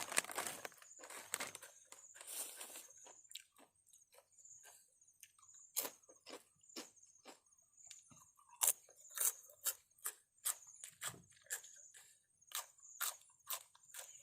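Crunchy chewing and biting of food, with a short crisp crunch every second or so, and some rustling in the first few seconds.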